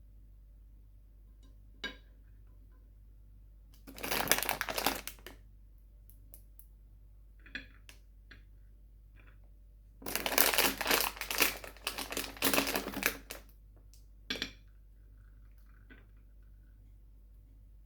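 Crinkling and crunching from sweets being unwrapped and eaten: two longer crackly bursts, about four seconds in and again from about ten to thirteen seconds, with scattered short clicks between.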